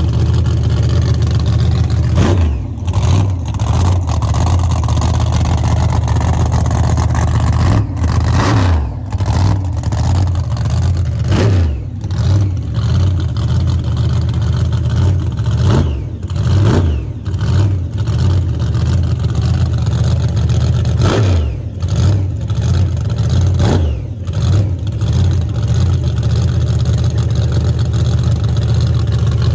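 Methanol-fuelled 540 cubic inch big-block drag car engine running loudly at idle, with a series of quick throttle blips, each rising sharply and falling back to idle.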